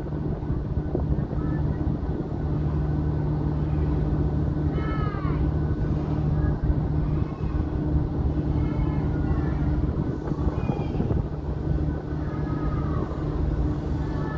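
Steady low hum and rumble of a train's engine. Several short falling bird calls come and go over it from about five seconds in.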